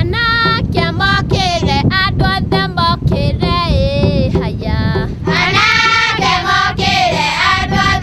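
Music: a song with high-pitched singing voices over a rhythmic backing, growing fuller about five seconds in.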